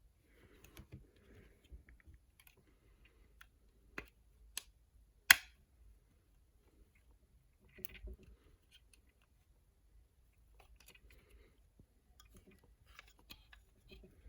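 Handling of a plastic action figure and its packaging: soft rustling with scattered light clicks, and three sharp plastic clicks about four to five seconds in, the last the loudest.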